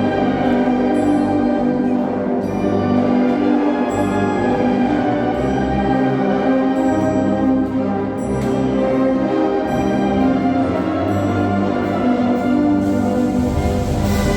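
A Sierra Mixe philharmonic wind band playing sustained brass chords, with a percussion stroke about once a second.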